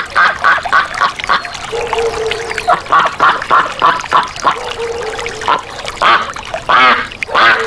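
Ducks quacking in runs of short, rapid calls, several a second.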